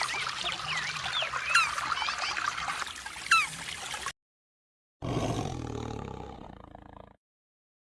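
Small birds chirping over a steady hiss, cut off suddenly about four seconds in. A second later a low animal roar fades out over about two seconds.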